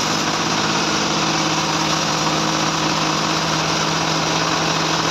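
Band sawmill running steadily: a constant machine hum that holds the same pitch and level throughout.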